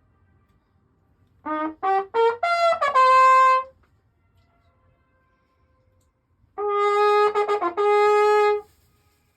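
Trumpet playing two short phrases: a run of quick rising notes ending on a held note, then after a pause of about three seconds a second phrase of held lower notes. In the pause the notes come back faintly as an echo off the mountains.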